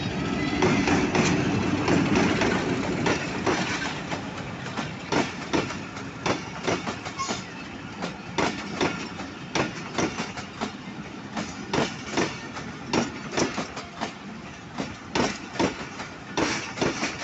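Pakistan Express passenger train passing through a station at speed. The diesel locomotive's rumble swells loudest in the first few seconds, then the coaches' wheels clatter over the rail joints in a steady run of paired clicks.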